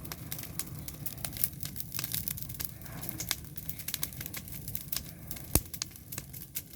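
Campfire crackling: irregular sharp snaps and pops over a steady low rush of flame, with one loud pop a little past the middle.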